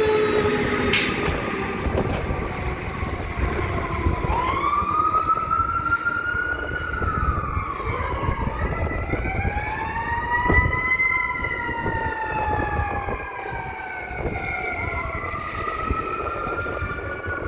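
Fire engine and ambulance sirens wailing in slow rising and falling sweeps over a heavy rumble of engines and road noise. A siren tone slides down at the start, and from about four seconds in the wails overlap.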